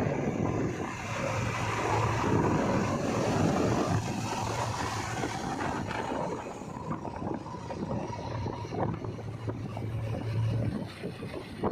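Heavy diesel engine of earthmoving machinery running, a steady low hum with a rougher mechanical noise over it.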